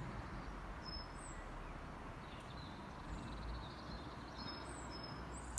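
Quiet outdoor ambience: a few faint, short, high bird chirps over a steady low background rumble.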